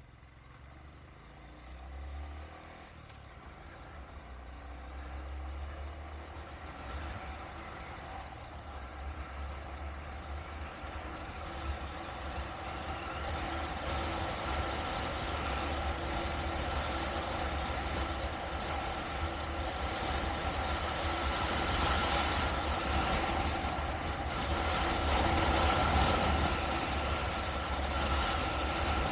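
A vehicle on the move: steady engine and road noise with a low rumble, growing gradually louder as it picks up speed.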